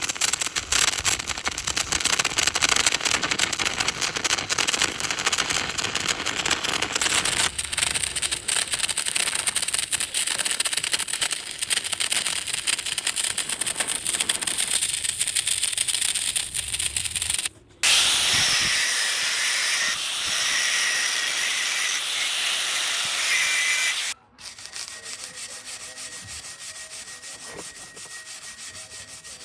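Metalworking on steel in a welding shop: a continuous harsh hiss and crackle, cut off and changing abruptly twice, with a steady high whine in the middle section and a quieter stretch near the end.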